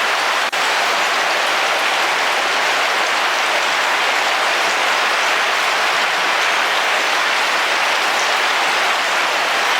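Heavy rain falling on the roof of a camping car, heard from inside: a dense, steady patter, with a brief dropout about half a second in.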